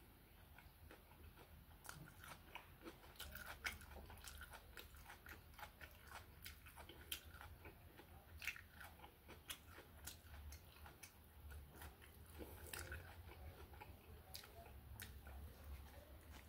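Close-up chewing and biting of steak tacos, a steady run of small wet mouth clicks and crunches over a faint low hum.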